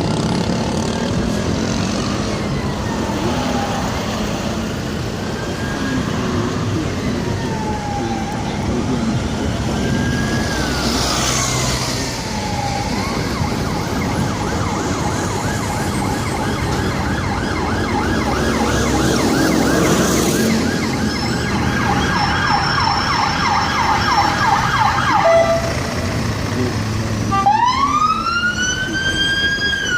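Emergency vehicle sirens over road traffic. A slow rising-and-falling wail gives way at about a third of the way in to a fast warbling yelp for about twelve seconds. Near the end a much louder, closer wail sweeps up and down as a siren approaches.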